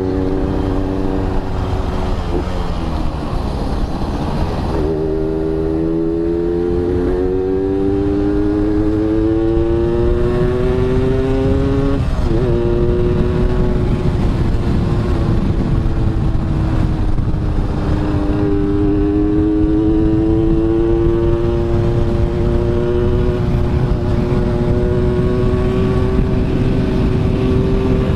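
Yamaha RX-King's 135 cc two-stroke single-cylinder engine pulling under way, its pitch climbing as it accelerates, dropping sharply at a gear change about twelve seconds in, then climbing again. A steady low rush of wind and road noise runs underneath.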